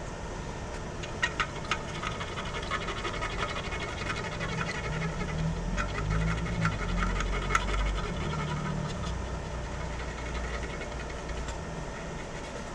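Small clicks and scratchy rubbing from hand work on a circuit board, over a steady low hum of bench equipment. The clicks come mostly in the first two-thirds, with a heavier low rumble in the middle.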